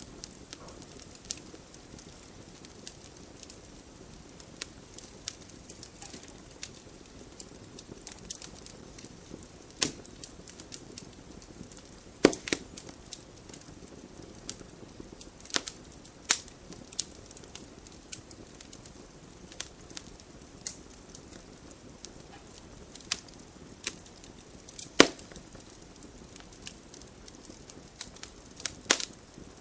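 Wood fire crackling in a fireplace: irregular sharp pops and snaps over a soft steady hiss, with the loudest pops about twelve seconds in and again near twenty-five seconds.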